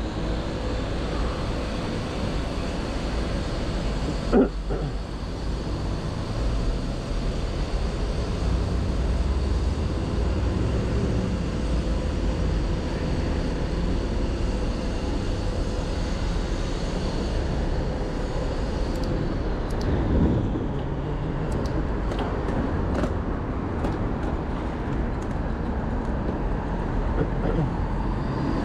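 City traffic and road noise heard while riding an electric bike through town, a steady low rumble. A single sharp knock about four seconds in is the loudest sound, and a few light clicks follow later.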